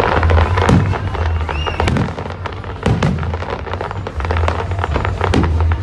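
Fireworks display: a dense, irregular string of bangs and crackles from shells bursting, several each second over a steady low rumble.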